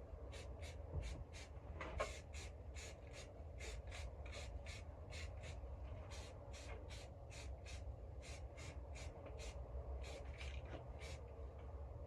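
Aerosol spray paint can sprayed in quick short bursts, about three hisses a second, over a low steady rumble.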